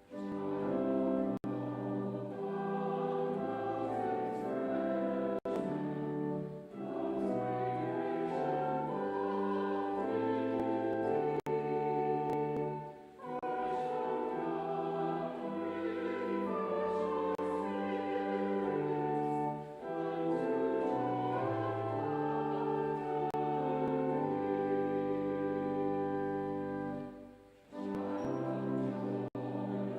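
A hymn sung by voices with a brass quintet accompanying, in long held phrases with a short break between each.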